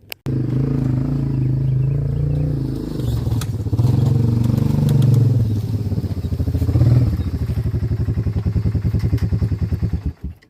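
Engine running hard, its pitch rising and dipping several times, cutting in and out abruptly.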